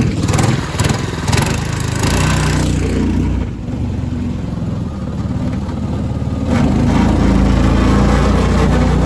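A small gasoline mud motor on a boat running steadily, then throttling up and running louder about six and a half seconds in.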